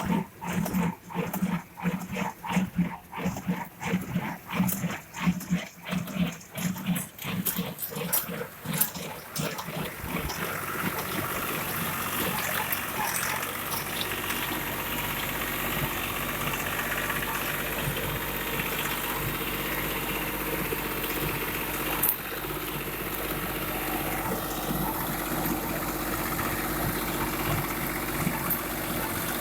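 A run of short, loud, repeated pulses, about two a second, for roughly the first ten seconds, then the Deutz Fahr Agromaxx 55 tractor's engine running steadily.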